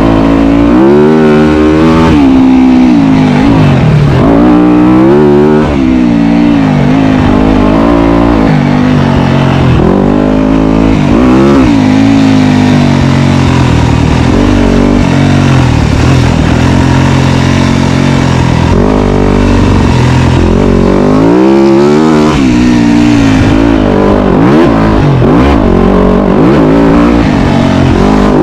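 Dirt bike engine running hard under load, its pitch repeatedly climbing and dropping back as the throttle opens and closes, with a steadier stretch midway.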